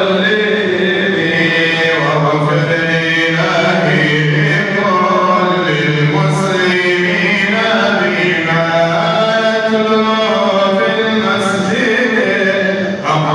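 Male voices chanting an Islamic devotional nasheed in praise of the Prophet, with long held, melismatic notes sung without a break.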